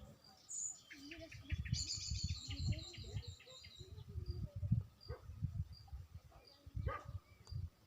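Birds singing outdoors: a fast, high trilling song about two seconds in, and short high chirps repeating about twice a second. Irregular low rumbling thuds run under the birdsong and are the loudest part.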